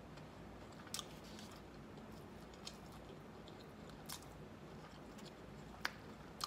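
Close-miked chewing of crispy fried chicken, quiet and wet, with a few sharp crunchy clicks scattered through it, the loudest near the end.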